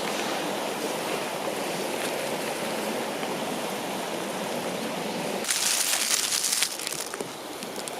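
A river rushing steadily. About five and a half seconds in, it cuts off abruptly and gives way to a hissing, crackling sound with fine irregular ticks.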